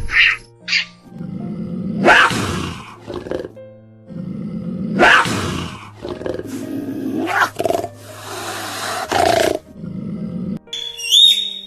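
An animal roaring: about four loud, rough calls spaced two to three seconds apart, over steady background music.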